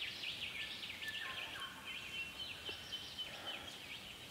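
A chorus of forest birds calling, a dense continuous run of quick, high chirps and twittering notes over a steady high note.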